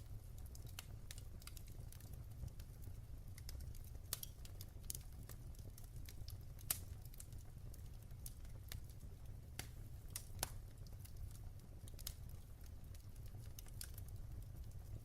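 Wood fire crackling in a fireplace: irregular small pops and snaps over a low steady rumble, with a louder pop about seven seconds in and another about ten seconds in.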